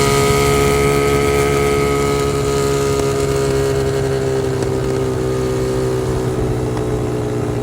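Dirt bike engine running at a fairly steady speed, its pitch and loudness easing down slightly over the last few seconds.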